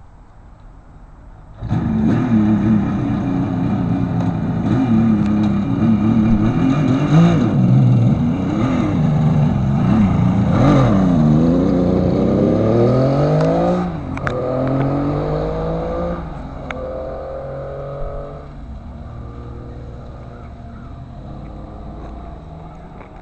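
1972 Kawasaki H2's air-cooled three-cylinder two-stroke engine is kick-started and catches about a second and a half in. It is blipped up and down a few times, then pulls away with rising revs, dropping back twice on gear changes, and fades as the bike rides off.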